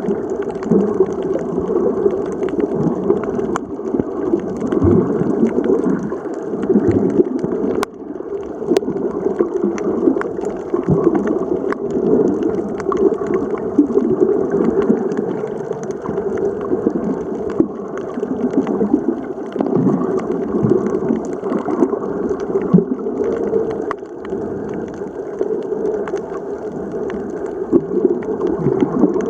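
Muffled underwater sound picked up by a camera in the water: steady gurgling water with small scattered clicks.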